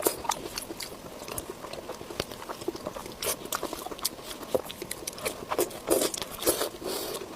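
Close-miked eating: a person biting and chewing food, with irregular wet smacks and crunchy clicks.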